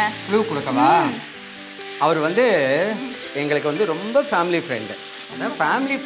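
Onion-tomato masala for a biryani sizzling as it is stirred with a ladle in a steel pot on a gas stove. Over it runs a loud melody with wide, wavering slides, hummed or sung.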